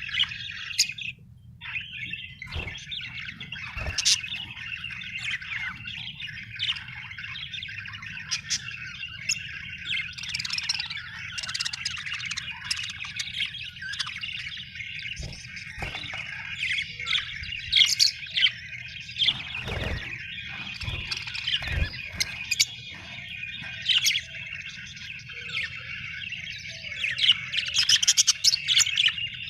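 Several budgerigars chattering and warbling without pause, with sharp chirps and squawks rising out of the chatter, over a steady low hum.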